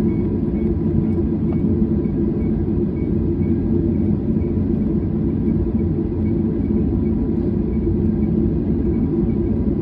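Steady low rumble of a jet airliner heard from inside the passenger cabin, with a faint steady tone above it.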